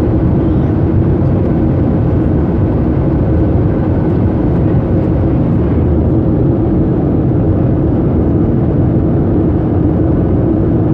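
Steady roar of a Southwest Boeing 737's jet engines and airflow after takeoff, with a steady low hum running through it.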